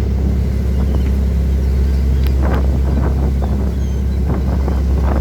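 Boat engine running with a steady low drone, with wind buffeting the microphone in short gusts from about two seconds in.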